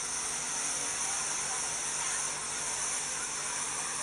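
Waterfall and stream water rushing, a steady unbroken noise with a strong high hiss.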